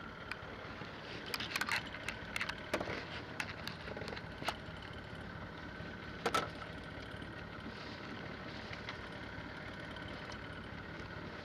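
A boat's engine running steadily, with a faint high whine over the hum. Several sharp clicks and knocks sound over the first half, the loudest about six seconds in.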